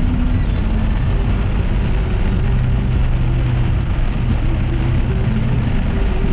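Steady engine and road noise heard from inside a moving car, with music playing low from the car radio.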